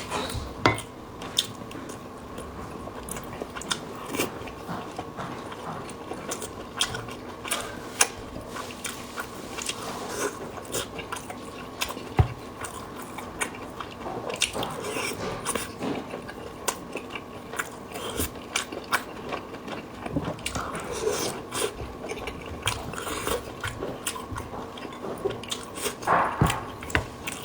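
Close-miked wet chewing and biting of soft, fatty red-braised pork and rice, in many irregular small smacks and clicks. A faint steady hum sits underneath.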